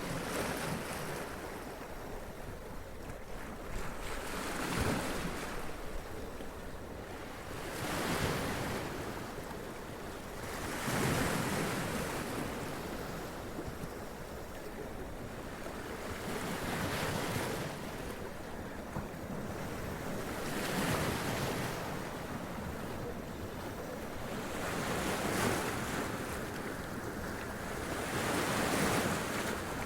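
Sea waves running up onto rocks and splashing, each surge swelling and falling back every three to four seconds over a steady wash of surf.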